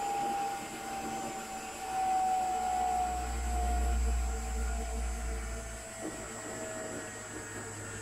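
Schulthess washing machine running, its motor whine falling slowly in pitch, with a low rumble that swells for a few seconds in the middle.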